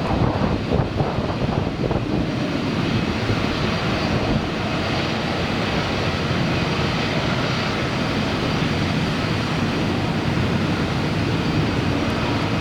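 A passing airliner's engines, a loud steady rush of engine noise with a faint high whine, mixed with wind buffeting the microphone.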